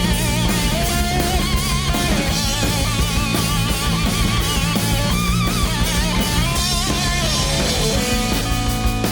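Rock band playing heavily distorted rock: overdriven electric guitars over a drum kit, with a lead melody wavering in wide vibrato.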